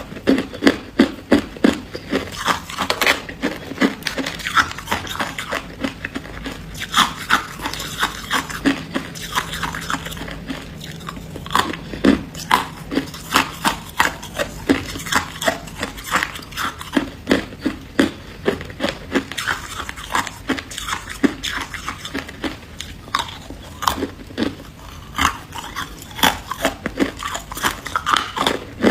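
Freezer frost being bitten and chewed close to the microphone: rapid, irregular crunching.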